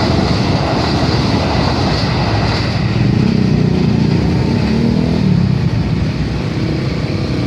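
Train running at speed: a steady, loud rumble.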